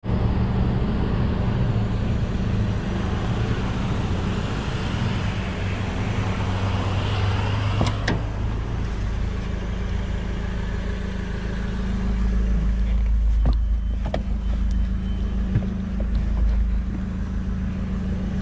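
A car engine idling steadily, with a rushing noise over the first several seconds. A few sharp clicks and knocks come as the car door is opened and someone climbs into the seat, the loudest about eight seconds in.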